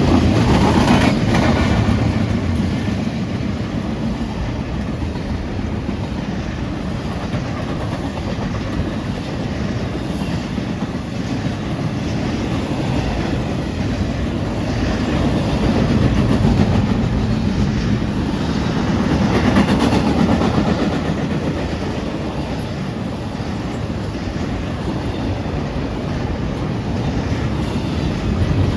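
Long CSX intermodal freight train passing at speed, a steady rumble of wheels on rail with clickety-clack over the joints. It swells a little louder a couple of times midway.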